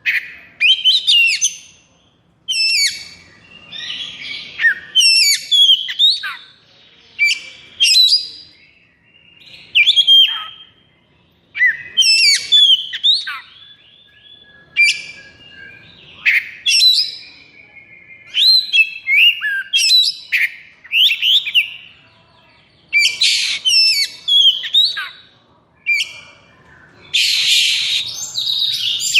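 Oriental magpie-robin (kacer) singing in rapid phrases of sharp, sweeping whistles with a few harsh rasping notes, pausing briefly between phrases.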